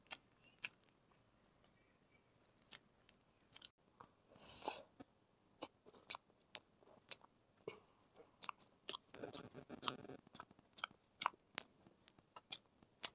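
Close-up mouth sounds of chewing a chicken burger: wet clicks and smacks scattered irregularly, with a short loud rush of hiss-like noise about four and a half seconds in and a softer rustle near ten seconds.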